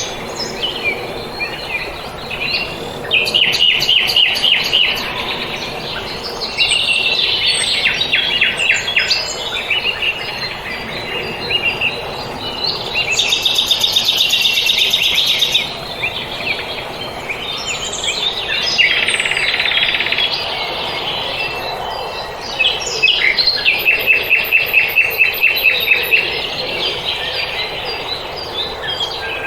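Small songbirds singing: rapid chirping trills of a second or two each, repeated every few seconds, with further chirps between them, over a steady outdoor hiss.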